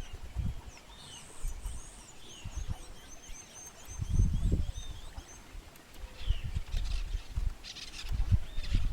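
Wild songbirds chirping, with many short high twittering notes and quick rising and falling whistles. Bursts of low rumble come and go underneath, the loudest about four seconds in and again near the end.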